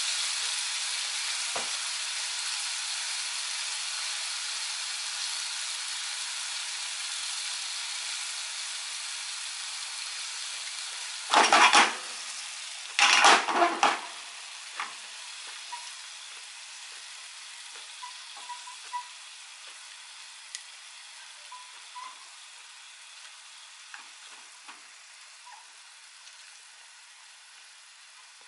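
Zucchini slices frying with soy sauce in a frying pan: a steady sizzle that slowly fades, with two brief, much louder rushes about halfway through as the slices are stirred and turned, then a few small pops.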